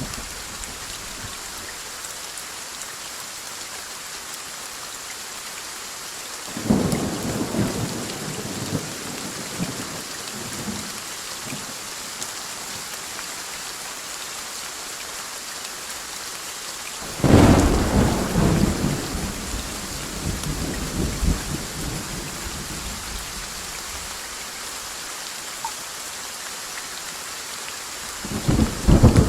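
Steady heavy rain hissing, with three rolls of thunder: one about seven seconds in, a louder one that breaks suddenly a little past the middle and rumbles on for several seconds, and another starting near the end.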